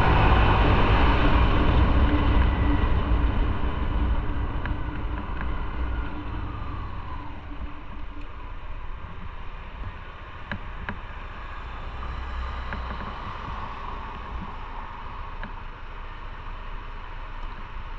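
Motorcycle riding: engine and wind noise, the engine loud at first and easing off over the first seven seconds or so, then a lower steady rush with a few faint ticks.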